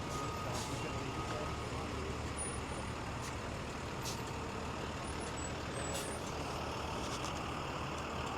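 Busy city street ambience: a steady rumble of traffic with heavy vehicle engines such as trucks and buses.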